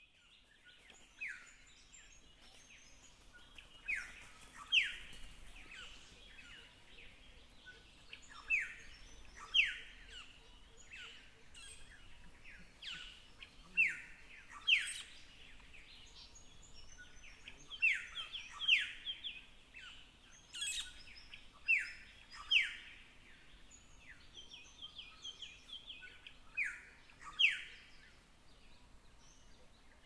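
Bird calls: short, sharp whistles that slide downward, mostly in pairs less than a second apart, repeating about every four seconds, with fainter chirps among them.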